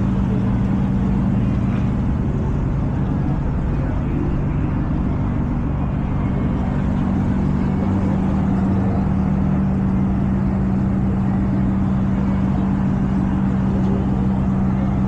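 Infiniti Q50's engine and exhaust droning steadily at one constant pitch while cruising, with no revving.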